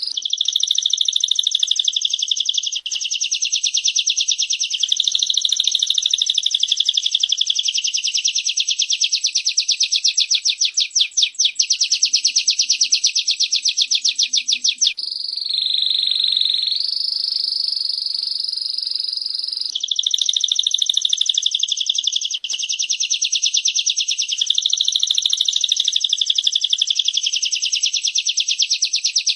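Female prenjak (prinia) and canary calling: a loud, rapid, continuous chattering trill of fast repeated chirps. About halfway through, a smoother, steadier trill takes over for about five seconds before the fast chatter returns.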